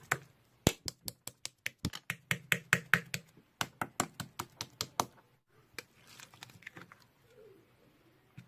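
A quick run of sharp clicks or taps, about four or five a second, like typing, that stops about five seconds in, over a faint low hum.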